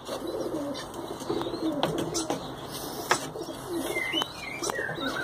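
Pigeons cooing in a loft, with low wavering calls overlapping throughout. A few sharp clicks and some brief higher chirps come in near the end.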